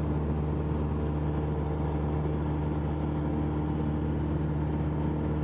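Cessna 172's piston engine and propeller running steadily at constant power, heard inside the cockpit as an even drone with no change in pitch.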